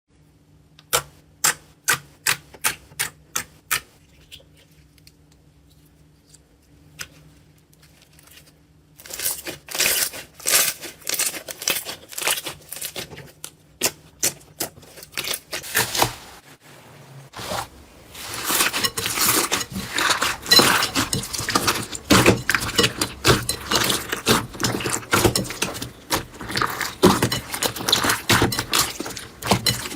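Slime being played with, giving sharp clicks and pops: about two a second for the first few seconds, then a quiet spell with a faint hum, then dense crackling that breaks off briefly past the halfway mark and returns busier.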